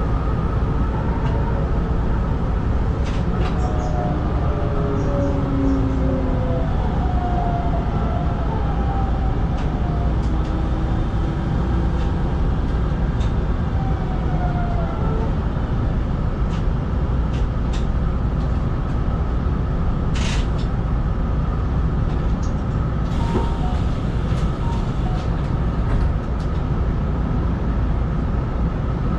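Hanshin 5500-series electric train running on track, heard from inside the cab: a steady rumble of wheels on rail with scattered clicks. In the first half a motor whine glides up and down in pitch, and about two-thirds of the way through there is one brief high squeal.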